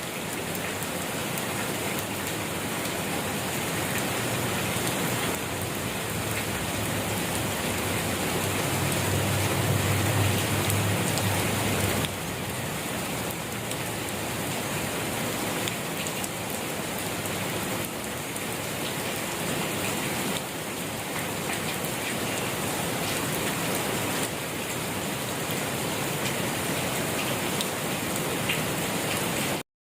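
Steady gentle rain falling on a surface: an even hiss with scattered drop ticks. A low rumble swells briefly around ten seconds in, and the sound cuts out for a split second at the very end.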